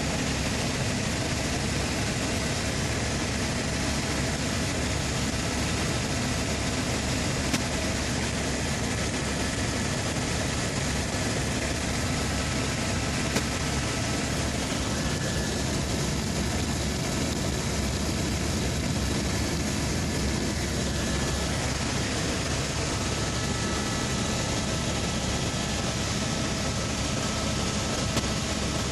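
Helicopter in flight: steady, unchanging engine and rotor noise with a faint steady whine, and a couple of tiny clicks.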